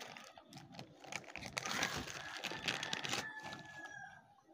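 Plastic packaging crinkling and rustling as it is handled, with small clicks, densest for a second and a half in the middle.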